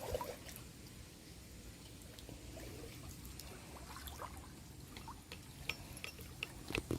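Water trickling and dripping, with scattered small drips and clicks that come more often in the second half.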